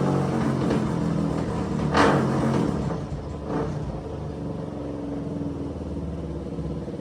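Big-bore Suzuki DR-Z400 single-cylinder four-stroke running at a fairly steady low speed through a cheap aftermarket slip-on exhaust. Two brief louder bursts come about two seconds in and again a second and a half later, then it settles a little quieter.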